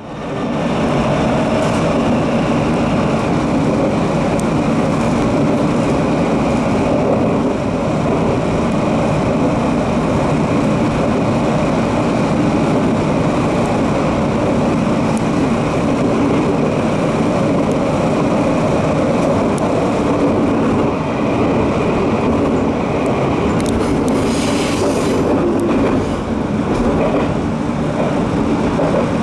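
Electric train running, heard from the front cab: a steady rumble of wheels on rail with a faint steady hum. About 24 seconds in there is a brief high squeal, as the train passes over the station's points.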